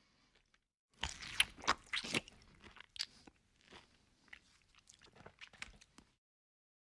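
Close-miked eating sounds: a person crunching and chewing fried food with rice, with a cluster of loud crunches about a second in and softer chewing after. The sound cuts off suddenly about six seconds in.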